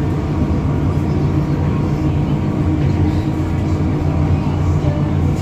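MTR M-Train electric train running along the Disneyland Resort Line, a steady rumble with a low, even hum.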